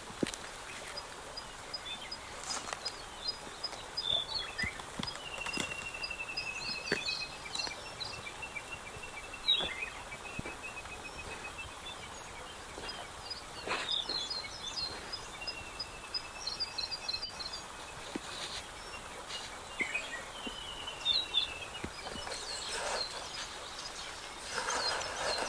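Small birds calling over a steady outdoor hiss: a regular run of high ticking notes and several slow trills of evenly spaced notes, with scattered chirps and a couple of sharp clicks.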